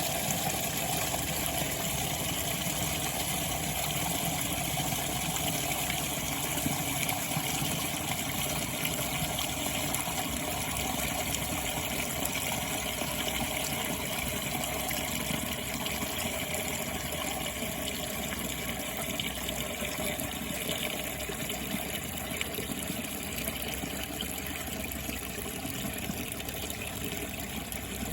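Steady rush of water from a running sump pump's discharge.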